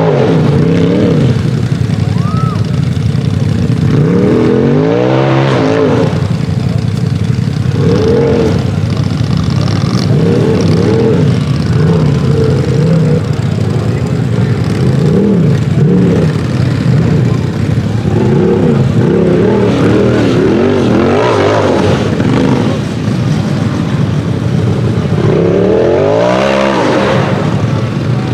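Turbocharged side-by-side (UTV) race engine revving hard and easing off again and again, its pitch climbing and dropping many times as the throttle is worked.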